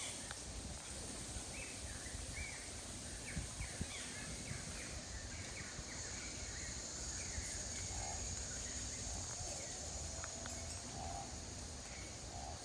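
Birds calling outdoors: a quick series of short chirps a couple of seconds in, then scattered lower calls later, over a steady low background rumble.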